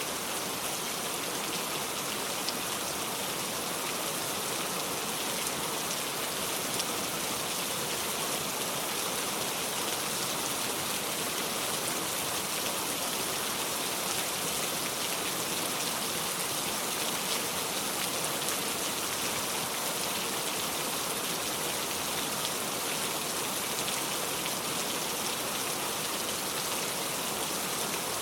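Heavy rain falling steadily on a metal roof, a dense, even patter with no thunder.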